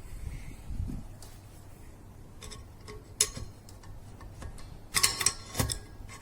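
Small metal clicks and clinks from the parts of an opened refrigerator compressor being handled during disassembly. A few scattered clicks are followed by a quick cluster near the end, over a faint steady low hum.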